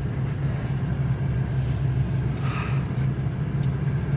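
Steady low drone of a truck driving, engine and road noise, with a few faint clicks over it.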